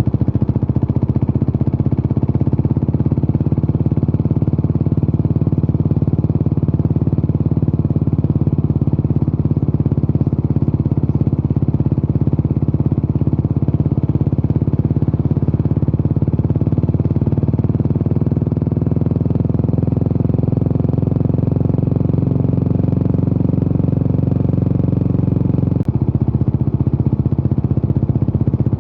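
Yamaha SR400's single-cylinder four-stroke engine through a Peyton Place Continental-style muffler, running steadily under way. The engine note rises slightly a little past halfway. It changes abruptly near the end.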